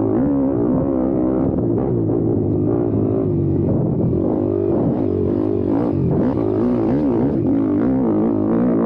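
YCF Bigy 190 Daytona pit bike's single-cylinder four-stroke engine being ridden hard, its pitch rising and falling quickly over and over as the throttle is worked on and off.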